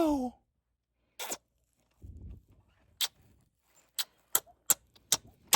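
A series of short, sharp clicks: a few single ones at first, then a steady run of about two a second from about four seconds in, with a brief low rumble in between.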